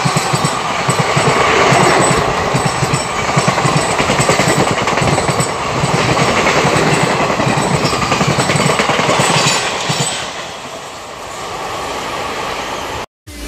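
Express train passenger coaches rushing past at speed, their wheels clattering rapidly on the track. About ten seconds in the noise drops away as the last coach passes and the train recedes.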